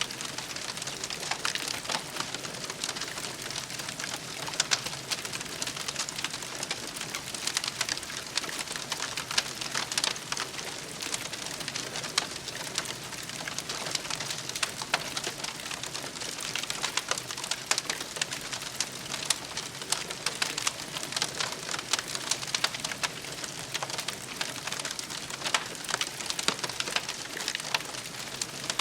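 Campfire crackling steadily, with a constant hiss of burning wood and many sharp pops and snaps scattered throughout.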